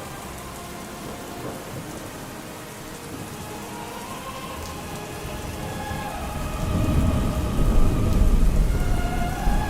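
Steady rain with a roll of thunder that swells about six seconds in and rumbles through the end, under faint distant opera music.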